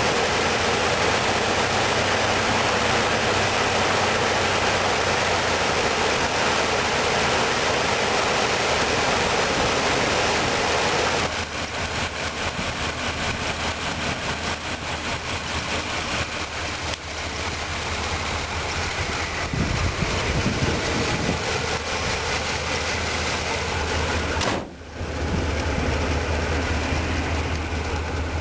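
Chevrolet 305 cubic-inch V8 in a 1985 Caprice Classic running steadily just after a cold start. The engine has valve problems. The sound drops in level about eleven seconds in and cuts out briefly near the end.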